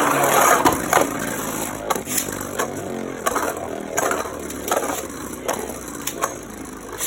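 A Beyblade top spinning in a plastic stadium just after launch, a scraping whirr with sharp clicks and knocks as it strikes the stadium wall, fading as the top slows.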